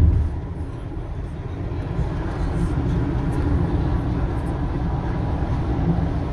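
Steady low rumble of road and engine noise from a vehicle driving at highway speed.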